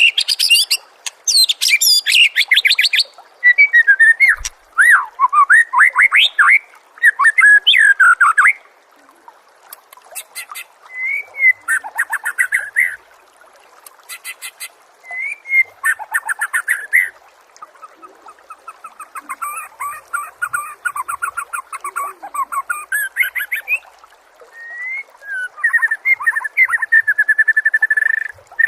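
Loud songbird song from a masteran tutor recording used to train white-rumped shamas. It is a run of varied phrases with short gaps between them: whistled slurs, fast rattling trills and very high buzzy notes. Near the end comes a long, even trill.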